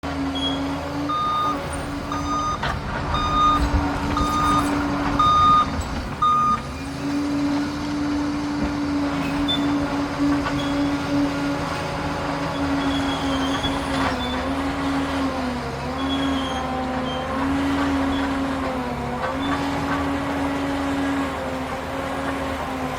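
A Liebherr PR 746 crawler dozer working: its diesel engine runs with a steady drone while the reverse alarm beeps six times in the first six or so seconds, with a few metal clanks. After that the engine note and a whine rise and fall as the machine is worked.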